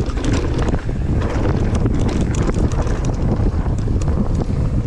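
Heavy wind buffeting the microphone, with many quick rattles and clicks from a mountain bike riding down a rough trail.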